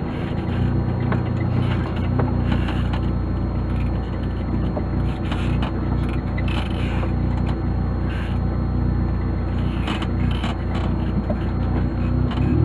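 An engine running steadily, a continuous low drone with scattered rattles and scrapes over it.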